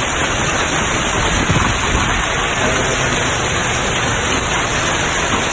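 Hailstones falling hard and striking the ground, a dense steady din of countless small hits.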